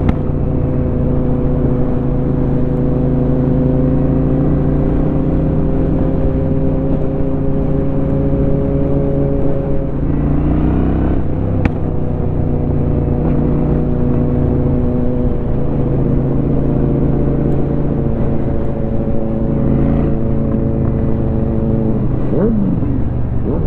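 2004 Honda Shadow 750's V-twin engine running steadily on the road, with wind rumble on the helmet microphone. The engine note changes about ten seconds in and wavers again near the end.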